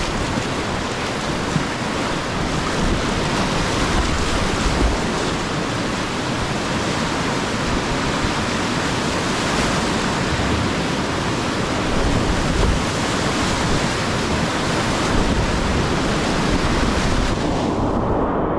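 Whitewater of the Lower Hood River rushing steadily around a kayak. Near the end, the sound suddenly turns muffled as its high end drops away.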